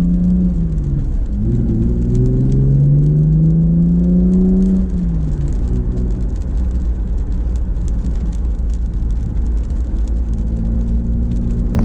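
A 2014 Camaro's 3.6-litre LFX V6, through an NPP dual-mode exhaust, accelerating: the engine note rises, drops sharply at a gear change about a second in, and climbs again. About five seconds in it eases off to a steady, lower drone at cruise.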